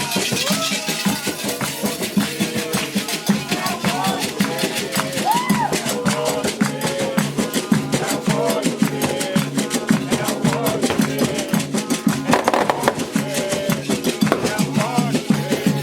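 Candomblé ritual music: voices chanting over a steady, fast beat of atabaque hand drums and a shaken rattle.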